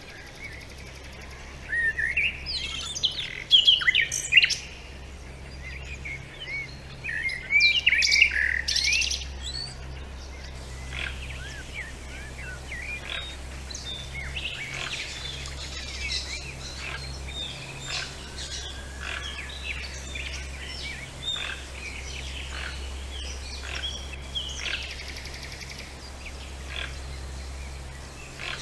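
Birdsong: one close bird sings loud, quick, sweeping phrases in bouts over the first ten seconds, then gives way to a softer chorus of many birds chirping and calling at once.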